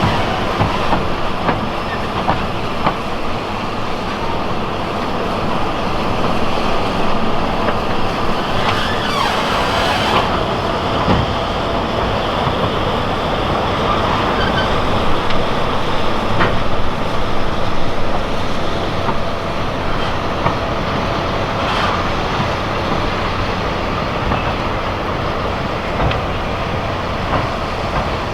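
Heritage steam train running along the track: a steady rumble with occasional clicks from the wheels on the rails.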